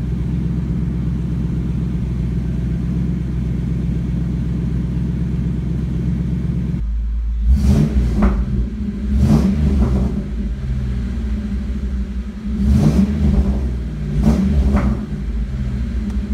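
Ford Mustang GT's V8 engine idling steadily with a deep rumble at the exhaust tips. Then, heard from the driver's seat, the throttle is blipped four times, each rev rising quickly and falling back to idle.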